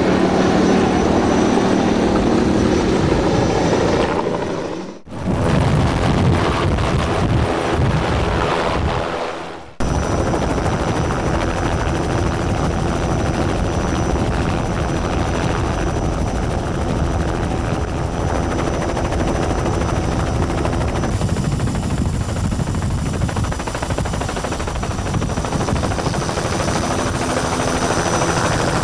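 Helicopter rotor and engine noise running steadily, broken by two short dips about 5 and 10 seconds in.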